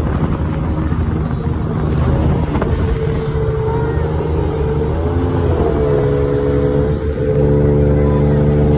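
A houseboat's engine running steadily, its pitch shifting briefly about five seconds in.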